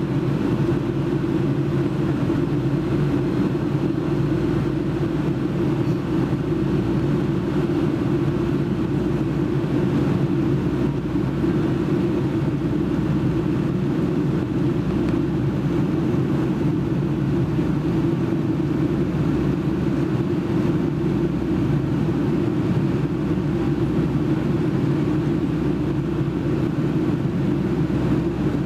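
Steady drone of engine and airflow inside the cabin of a Boeing 757-200 climbing out after takeoff, heard from a window seat.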